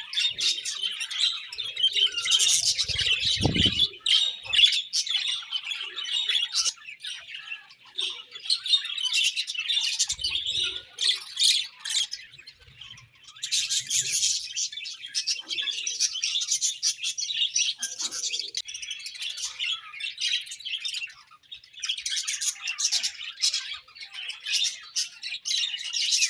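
Several budgies (budgerigars) chirping and warbling together in fast, continuous chatter, thinning out briefly twice. A short low rumble about three seconds in.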